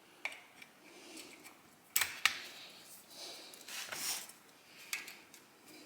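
A carburetor linkage spring being worked off a bracket by hand: scattered small metallic clicks and light scraping of parts, with a few sharp clicks standing out.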